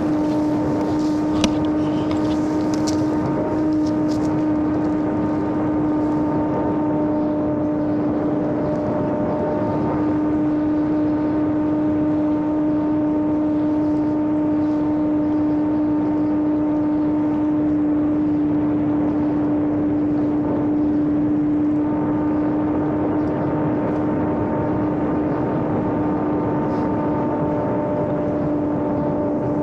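Homemade electric RC airplane's motor and propeller running at steady cruise throttle in flight: a constant drone whose pitch barely changes. There is one sharp click about a second and a half in.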